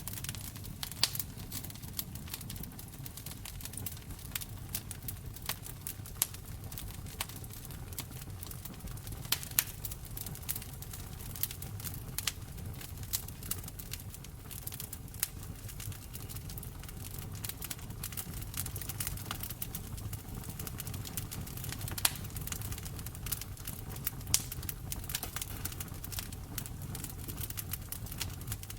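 Wood fire in a fireplace crackling: frequent sharp snaps and pops, a few of them louder, over a steady low rumble of burning.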